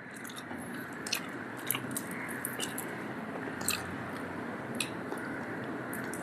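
A person chewing a mouthful of grilled chicken close to the microphone, with scattered soft wet clicks of the mouth about once a second.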